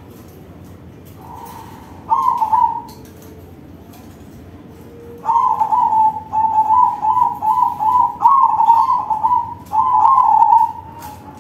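Crossbred zebra dove (perkutut crossing) singing its cooing song of rapid repeated notes. There is one short phrase about two seconds in, then a long unbroken run of notes from about five seconds in until near the end.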